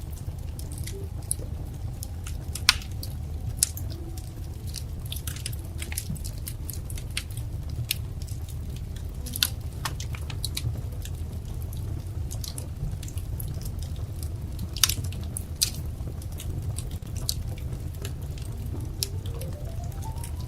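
Wood fire crackling: a steady low rumble of flames with constant irregular small crackles and a few sharper, louder pops scattered through.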